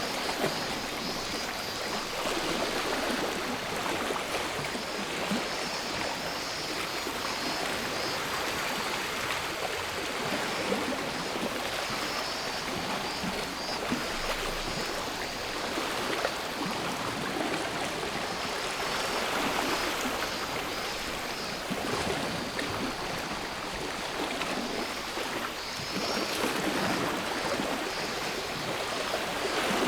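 Sea waves washing on a shore in a steady rush of surf, with cicadas buzzing in a high band that comes and goes.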